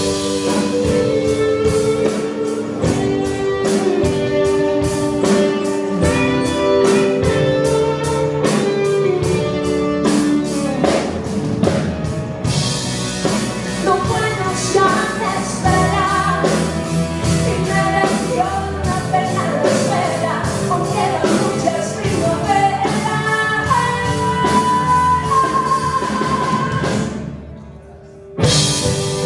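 Live band with guitar and drums playing a pop song while a woman sings. The music drops away briefly near the end, then comes back in.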